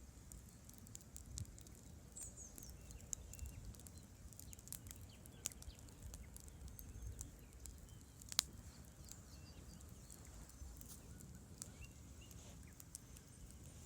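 Campfire burning with scattered sharp crackles and pops, one louder pop about eight seconds in, over a low steady rush of river water. A short bird chirp sounds faintly about two seconds in.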